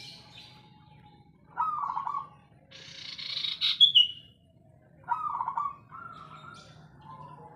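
Zebra dove (perkutut) cooing: two short trilled coo phrases, one about one and a half seconds in and another about five seconds in. Between them comes a louder, high-pitched hissing chirp that ends in a short falling note.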